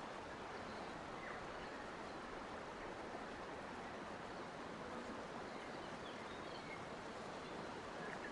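Steady natural outdoor ambience: an even rushing noise with a few faint, brief bird chirps, about a second in and again near the end.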